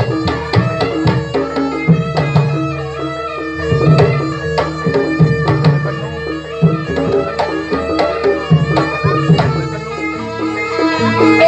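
Javanese jaranan music: rapid hand-drum strokes over sustained ringing pitched tones, with a recurring low drum beat.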